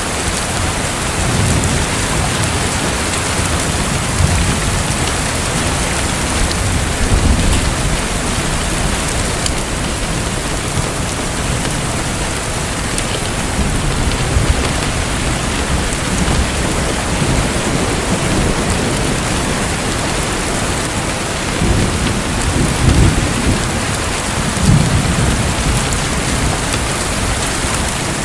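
Steady rain hiss with low rolls of thunder swelling up now and then, strongest about a second in, around seven seconds, and again near the end.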